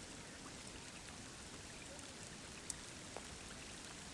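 Steady rain falling, an even hiss with scattered drops ticking, one sharper tick nearly three seconds in.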